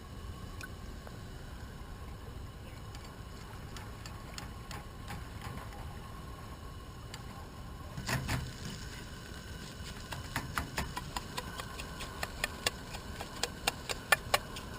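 Eggs cooking in a pan on a camp stove: a steady hiss, one knock about eight seconds in, then a run of sharp clicks and taps that grows quicker toward the end.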